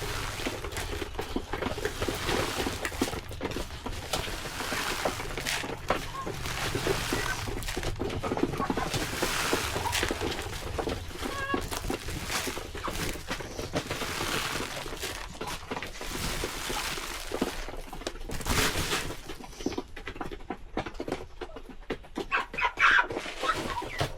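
Chickens clucking, over a busy run of small clicks and rustles.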